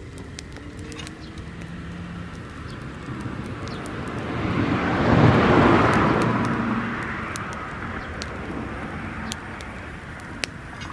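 A vehicle passes by, its noise swelling to a peak about halfway through and then fading away, over the scattered faint crackle of a burning dry-grass fire.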